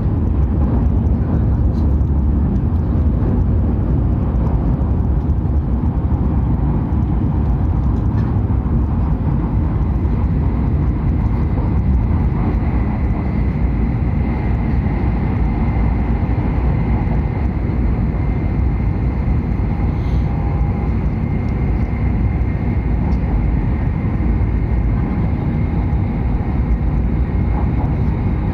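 Hokuriku Shinkansen train running at speed, a steady unbroken rumble of running and rolling noise heard from inside the passenger car, with a faint steady high tone.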